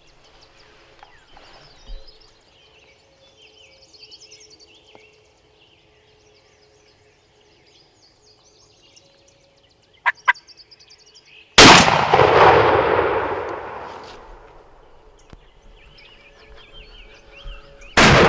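A single shotgun shot at a turkey, fired about two-thirds of the way in, sudden and loud, its echo rolling away over two or three seconds. Just before it come two short, sharp sounds, with faint songbirds calling throughout.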